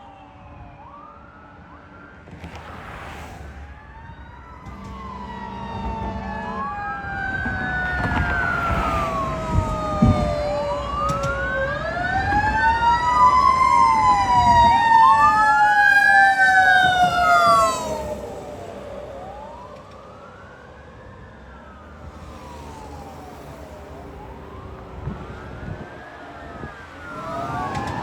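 Sirens of a fire engine and a ladder truck responding Code 3: several electronic wails rising and falling out of step with each other, over long, slowly falling siren tones. They grow louder and are loudest from about halfway through, then drop away sharply about two-thirds of the way in before picking up again near the end.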